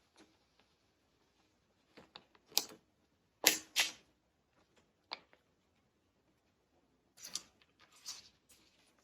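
Unboxing handling of an iPad box and its wrapping: scattered short rustles and light taps of cardboard and plastic. The loudest are two quick rustles about three and a half seconds in, with another cluster near the end.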